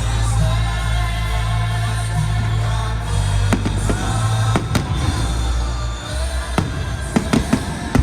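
Loud music with a heavy, steady bass, played for a fireworks show, with fireworks shells bursting over it: a few single bangs through the middle and a quick run of bangs near the end.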